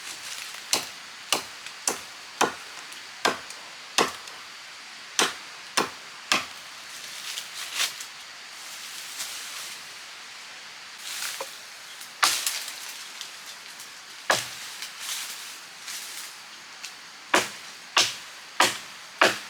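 Wood being chopped by hand with a blade: sharp strikes about two a second, in runs of three to six with pauses between them.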